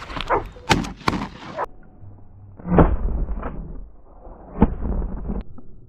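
Several shotgun shots over a few seconds as duck hunters fire on incoming mallards. The sharpest come about a second in and the heaviest blasts near the middle and later, each trailing off briefly.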